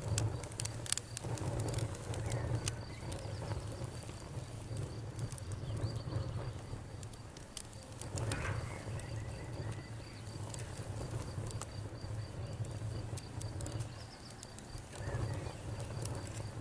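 Campfire crackling and popping in scattered sharp snaps over a steady low rumble, with crickets chirping in a fast, even pulse.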